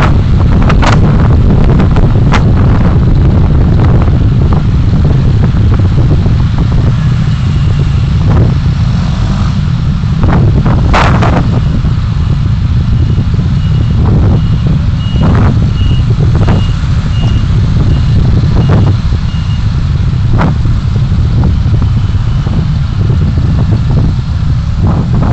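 Car driving, heard through a dashcam microphone as a loud, steady low rumble of road and engine noise, with scattered knocks. Partway through comes a series of short high beeps, about two a second, for roughly five seconds.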